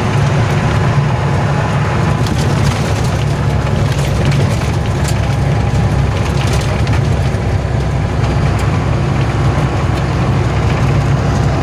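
Heavy truck engine running steadily with a low, even drone, light clicks and rattles scattered over it.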